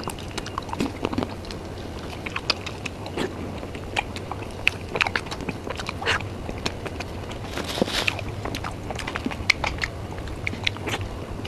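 Close-miked eating of soft mousse cake: wet chewing and mouth smacks, with irregular short clicks throughout.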